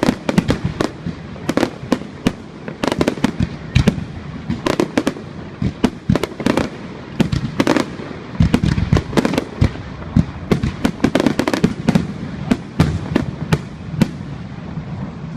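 Aerial fireworks display: a dense, irregular barrage of sharp bangs and crackling reports, several a second, with heavier deep booms among them.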